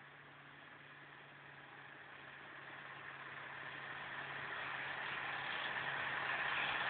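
Scania V8 truck engine running steadily and growing louder throughout, as the truck approaches along a gravel road.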